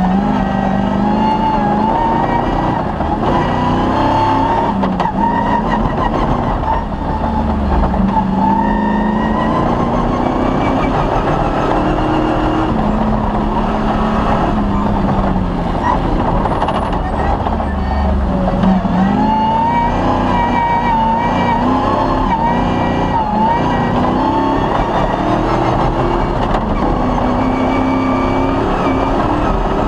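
Off-road rally car's engine running hard throughout, its pitch repeatedly rising and dropping as it accelerates and eases off over a rally stage.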